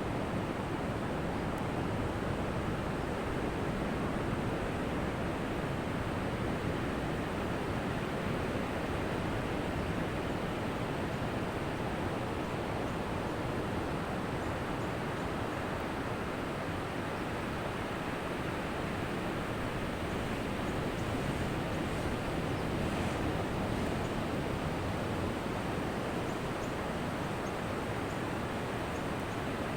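Ocean surf: a steady, even wash of breaking waves, with no distinct swells or crashes standing out.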